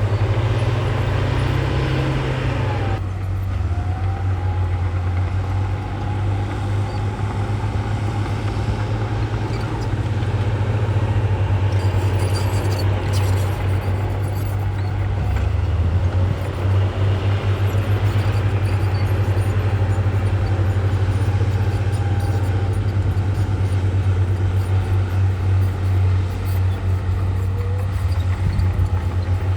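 Diesel engines of heavy earthmoving machines, a bulldozer and dump trucks, running steadily with a deep, continuous engine note, with faint squealing tones over it. The sound changes abruptly about three seconds in, as the higher sounds drop away.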